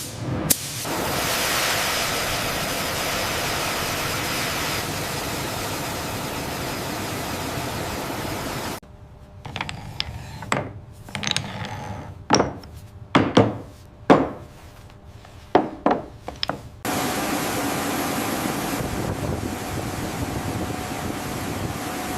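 Industrial tool and machine noise: a steady rushing noise, then for several seconds in the middle a series of sharp, irregular clicks and knocks, then steady noise again with a faint hum.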